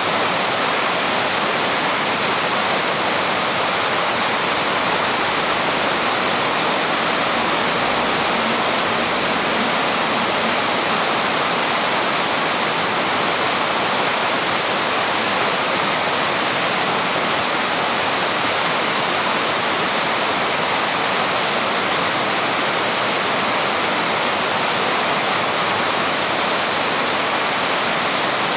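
Waterfall: water pouring over rock in a steady, unbroken rush.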